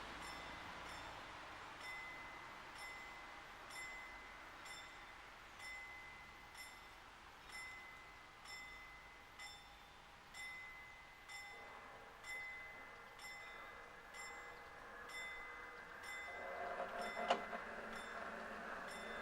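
Level crossing warning bell striking steadily about once a second, signalling that the barriers are closing. Toward the end a rising mechanical noise comes in, with one sharp click.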